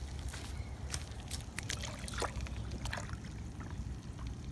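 Floodwater trickling and draining into a backyard catch basin, under a low steady rumble with a few small clicks.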